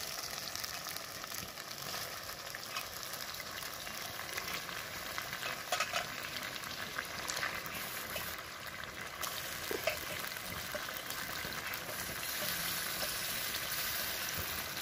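Onion and poppy-seed-cashew masala sizzling in a wok as marinated chicken pieces go into it: a steady frying hiss, with a few brief clicks.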